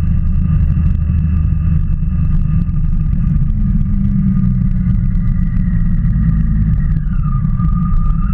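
Motorcycle engine running under way, over a heavy low rumble. Its note holds steady, drops about seven seconds in, then climbs again near the end.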